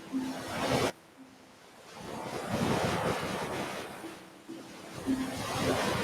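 Ocean waves washing onto a beach. One wash cuts off suddenly about a second in, then a long surge builds from about two seconds in and holds to the end.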